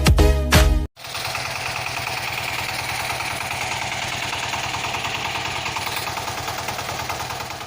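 Background music with a beat cuts off about a second in. It is followed by a small motor running steadily with a fast, even whirr, which fades out near the end.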